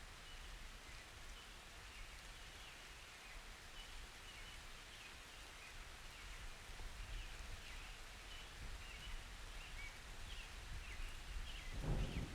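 Quiet summer storm ambience: a soft rain hiss with a faint low rumble and scattered high bird chirps. Near the end a thunder rumble starts to build.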